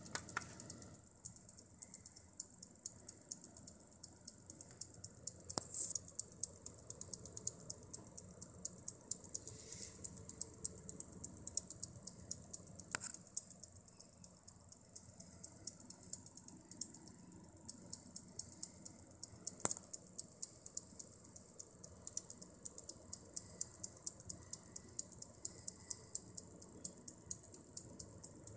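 XFX ProSeries 550W Core Edition power supply making a fast, uneven ticking, several clicks a second, over a faint steady hum. This ticking is the fault that the owner reports as a problem with the unit.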